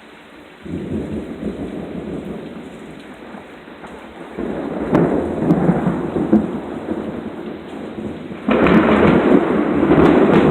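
Thunder rumbling over steady rain. One roll breaks in just under a second in, a louder one about four and a half seconds in, and the loudest, a sudden clap that keeps rumbling, about two seconds before the end.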